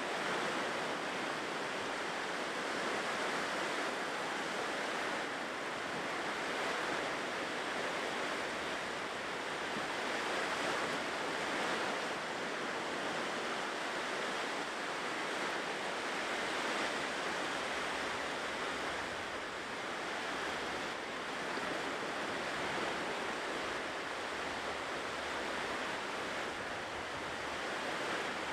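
Ocean surf washing steadily on a shore, a continuous rush of waves that swells and eases gently.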